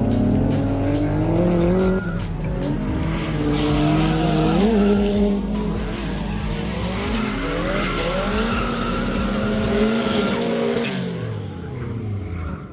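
Drift car engine revving up and down as the car slides, with tires squealing. The sound dulls near the end.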